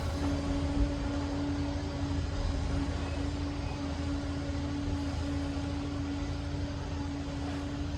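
Liebherr PR 746 crawler dozer running steadily under work, a deep diesel rumble with a constant whine on top.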